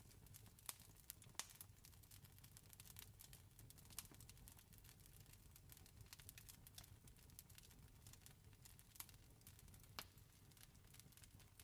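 Wood fire crackling, with irregular small pops and snaps over a faint low rumble; a few louder pops stand out, one about ten seconds in.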